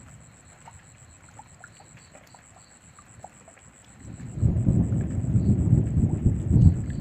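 Light rain with scattered drips, then about four seconds in a deep rumble of thunder swells in and keeps rolling.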